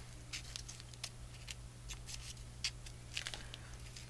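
Paper cutouts being handled and positioned on a tag: light, irregular rustles and small taps of paper, over a faint steady hum.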